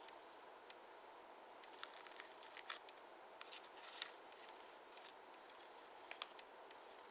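Near silence over a steady hiss, with a few faint sharp ticks and rustles of paper being handled, the loudest about four seconds in.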